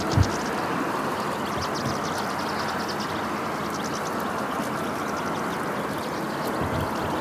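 Flock of European goldfinches twittering in bursts of quick high chirps over a steady rushing noise, with a low thump about a quarter second in.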